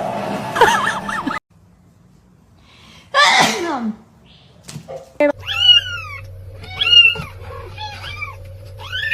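A single loud sneeze, then a cat meowing in several short calls, about one a second, over a faint steady hum.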